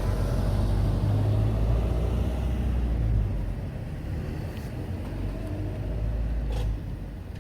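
Road vehicle engine running with a low, steady rumble, loud for about three seconds and then fading, its deepest hum cutting out shortly before the end.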